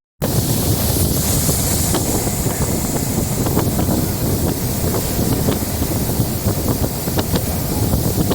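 Wind buffeting the microphone over the steady rumble of a moving DEMU train, with a few light clicks.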